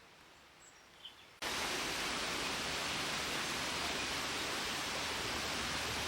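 Steady, even rushing noise that cuts in abruptly about a second and a half in, after a short stretch of near quiet.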